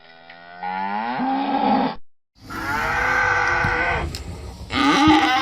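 Cow mooing: a first moo that rises in pitch and breaks off abruptly about two seconds in, then after a brief silence a second long moo, and a third starting near the end.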